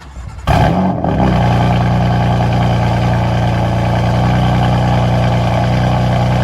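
Car engine starting up: the revs flare briefly, then settle into a steady fast idle.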